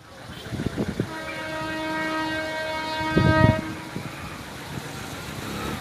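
Train passing with its horn sounding steadily for about two and a half seconds over the rumble of the train.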